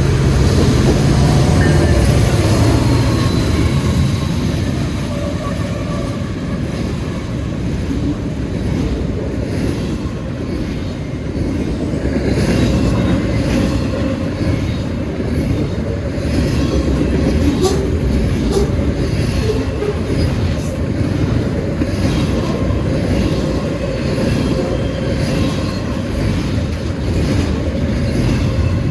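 Freight train rolling past, a steady rumble from its cars with steel wheels clicking over rail joints, most clearly around the middle.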